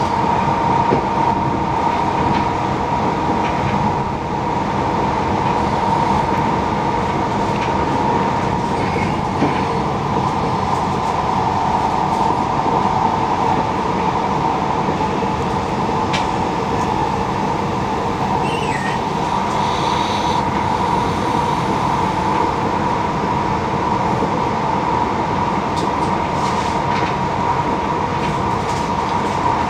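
Passenger train running at speed, heard from inside the carriage: a steady rumble with a constant whine on top.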